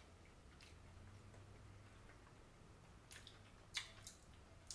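Near silence with a faint steady room hum; in the second half a few short soft clicks and smacks of someone chewing a mouthful of boiled dandelion leaves.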